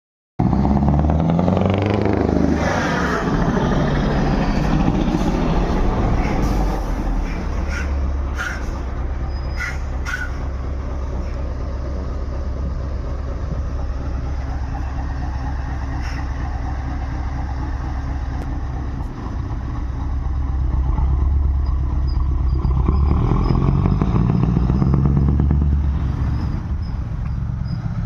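Scania truck's V8 diesel engine running with a deep, low rumble. Its pitch sweeps up and down in the first few seconds, and the engine swells louder again about three-quarters of the way through. A few sharp clicks come in between.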